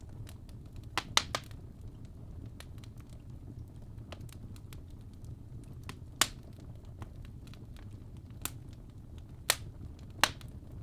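Wood fire crackling in a fireplace: sharp irregular pops and snaps over a low steady rumble of burning. The loudest pops come as a quick cluster of three about a second in, with single loud snaps at about six seconds, nine and a half seconds and just past ten seconds.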